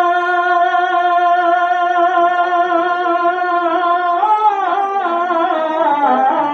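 Male voice singing an Urdu naat, holding one long steady note for about four seconds, then ornamenting it with quick turns up and down in pitch.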